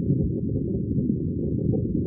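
Aquarium water bubbling, heard as a continuous, muffled low gurgling with no high pitches.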